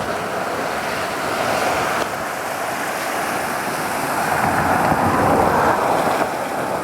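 Fast-moving floodwater of a swollen creek rushing steadily, swelling a little louder about five seconds in.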